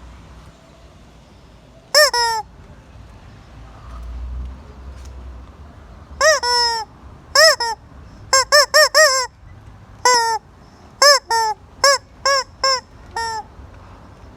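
A hen calling loudly: one harsh call about two seconds in, then a run of about a dozen short calls in quick groups, each rising and falling in pitch.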